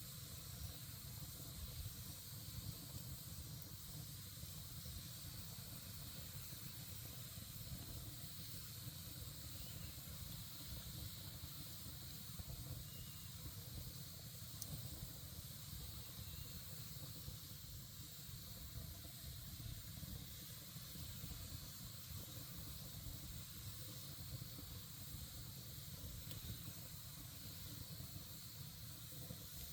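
Campfire burning: a steady faint hiss with a low rumble and an occasional faint crackle.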